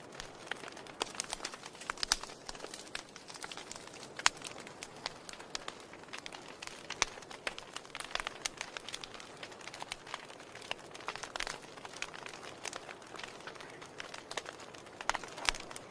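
Wood fire in a fireplace crackling: irregular sharp snaps and pops over a soft steady hiss.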